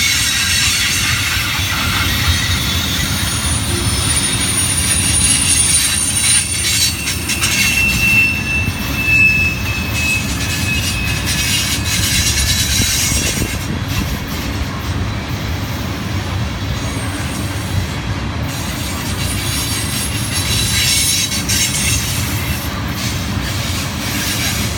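Tank cars of a freight train rolling past: a steady rumble of steel wheels on rail. Thin wheel squeals come and go, a very high one a few seconds in and a lower one about eight seconds in.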